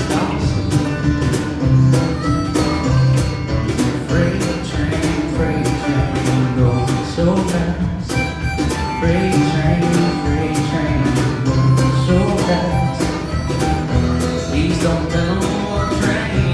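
A live band playing a country-folk song, with guitars over a steady beat.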